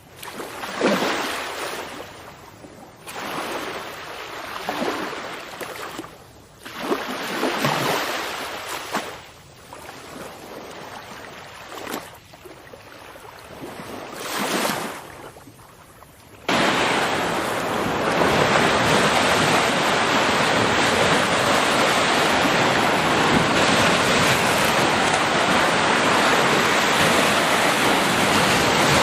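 Running water: surging and splashing in uneven swells every second or two, then about halfway through it switches abruptly to a loud, steady rush of water.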